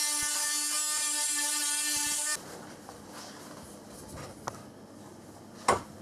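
Ryobi power sander running with a steady high whine as it smooths rough wood, cutting off abruptly about two seconds in. A single sharp knock follows near the end.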